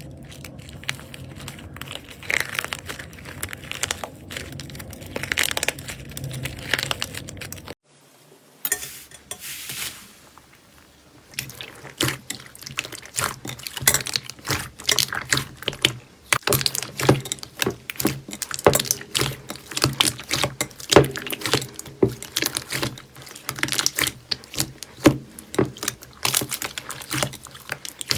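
Slime being squeezed, poked and stretched by hand, making rapid wet, sticky clicks and squelches. A short lull comes about eight seconds in, then the clicking turns louder and sharper.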